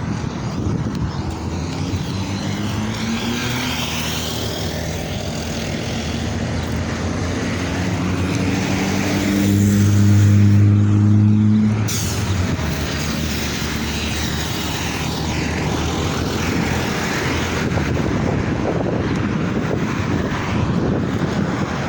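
Scania R450 truck's diesel engine running past over steady road noise. Its drone slowly rises in pitch and volume, is loudest about ten seconds in, and drops away abruptly near twelve seconds.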